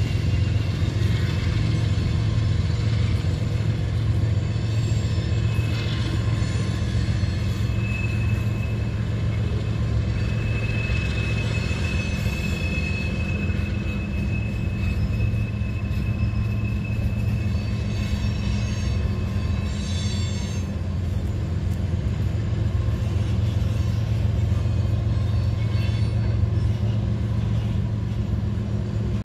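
Freight train of tank cars hauled by Union Pacific diesel locomotives rolling across an elevated bridge: a steady low rumble, with a high wheel squeal for several seconds starting about eight seconds in and fainter squeals later on.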